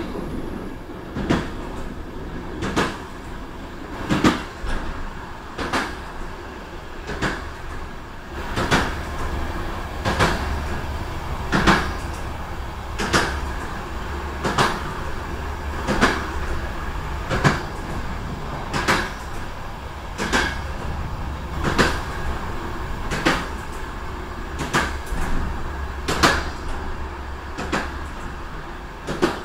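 Moving passenger train's wheels clacking over the rail joints, one knock about every second and a half, steady and even, over the continuous rumble of the running train.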